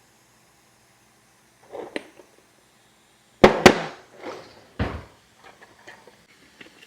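Kitchen handling noises. Two sharp, loud clicks about halfway through, close together, then another knock and a few faint clicks and rustles, as containers and utensils are handled while cooking.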